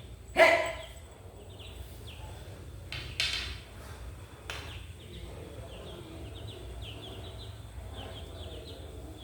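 A chick peeping over and over in short, quickly falling high chirps, several a second, growing busier in the second half. About half a second and three seconds in come two louder, fuller calls.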